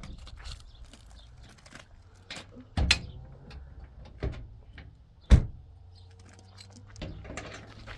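A few sharp knocks or thumps, three clear ones with the last the loudest, over a low steady hum.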